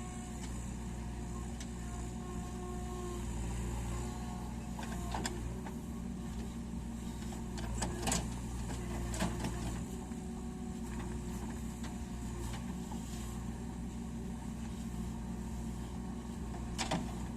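HMT tractor's diesel engine running steadily at a low, even hum, with a few sharp clicks over it.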